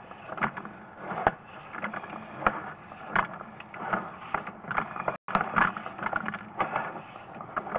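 Irregular clicks and knocks from a sewer inspection camera's push cable being fed down a 3-inch drain line.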